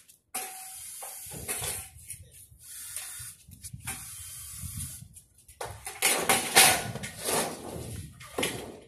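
Galvanized steel shed-frame channels being handled and fitted: irregular scraping and knocking of metal, over a steady hiss, loudest in a cluster of scrapes about six to seven seconds in.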